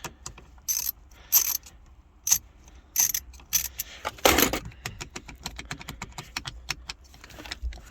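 Hand tools and loose metal parts clicking, clinking and rattling as the ignition lock is worked free of a steering column. The clicks are irregular, with a louder scrape or rattle about halfway through.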